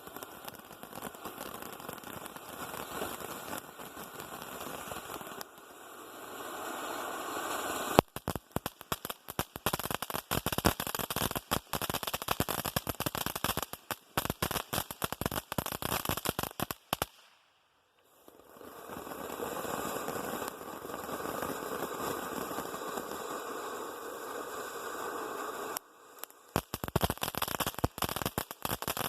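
TNT Star Master fireworks fountain burning: a steady hiss of spraying sparks gives way about eight seconds in to dense crackling. After a brief near-silent break just past halfway it hisses again, and near the end it crackles once more.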